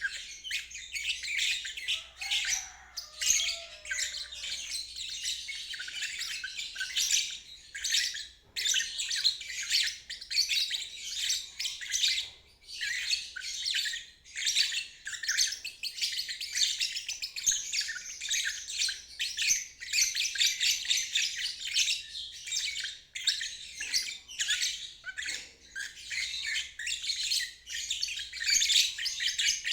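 Lovebird singing its ngeriwik song: a long, continuous stream of rapid, high chattering chirps with only brief pauses.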